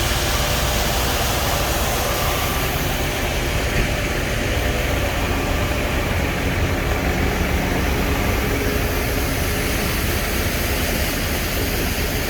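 Tractor engine running steadily: a constant low drone under a broad, even hiss.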